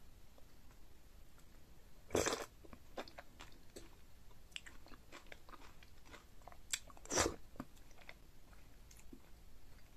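Close-miked eating sounds: a person biting and chewing, with many small wet mouth clicks and two louder bites, one about two seconds in and one about seven seconds in.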